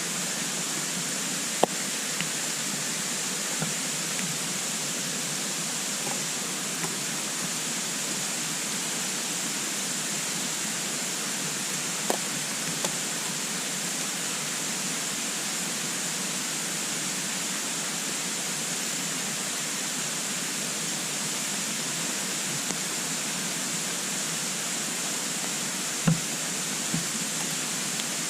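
Wood fire burning in a compact twig stove: a steady hiss with a few sharp pops and crackles from the burning wood.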